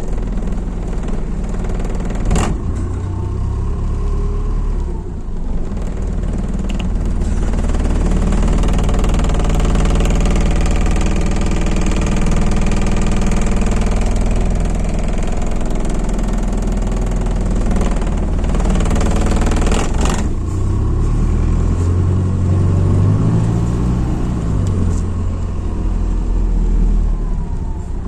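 MAZ-206 city bus heard from inside the cabin while under way: the engine runs continuously with road noise, getting louder through the middle and changing pitch near the end as the bus speeds up. Two sharp knocks, one near the start and one about two-thirds of the way in.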